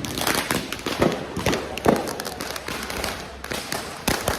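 Firecrackers and fireworks going off in quick, irregular succession: a dense string of sharp bangs, several a second, with a few louder reports standing out.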